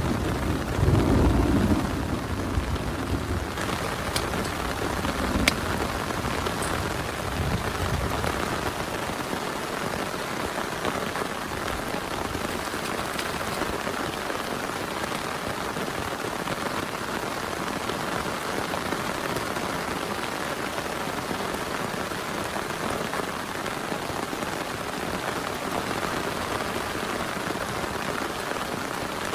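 Heavy rain falling steadily, with a rumble of thunder dying away in the first couple of seconds.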